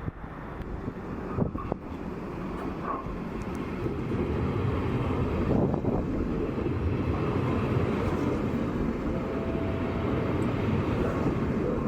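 A train moving through a station, a steady rumble and rush of noise that grows louder over the first four seconds and then holds. A couple of sharp knocks come about a second and a half in.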